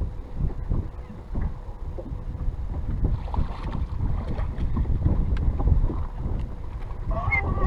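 Strong wind buffeting the microphone on an open boat: a gusting low rumble that rises and falls. Near the end a series of short pitched calls begins.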